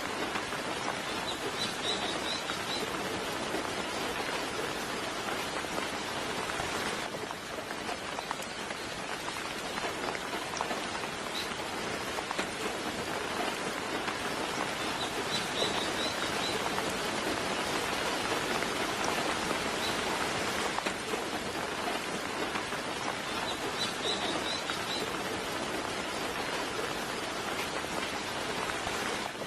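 Soft rain falling steadily. A bird's brief high chirps come through three times: near the start, about halfway and again later.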